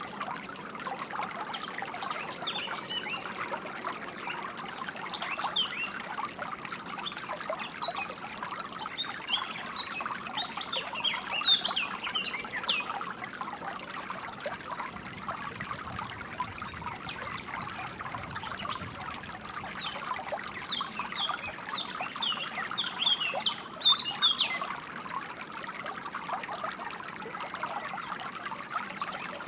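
Water trickling and splashing steadily over rocks, with songbirds chirping and twittering above it in bouts, busiest in the middle and again near the end.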